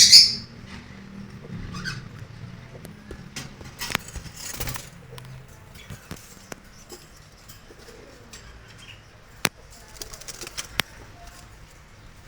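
Pet budgerigar giving one loud high chirp at the start, then scattered soft chirps, sharp clicks and light rustling, with a burst of clicks near the end.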